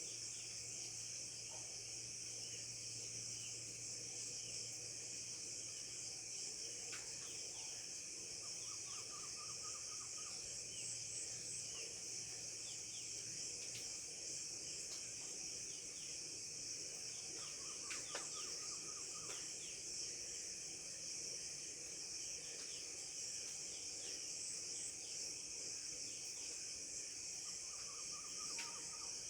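Steady high-pitched chorus of crickets with scattered bird chirps over it; three times a bird gives a short run of rapid repeated notes. A faint low hum underneath stops about halfway through.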